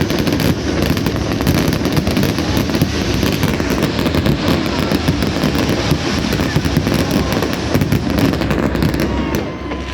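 Fireworks going off in a rapid, continuous barrage of crackles and bangs, thinning out near the end: the closing finale of the display.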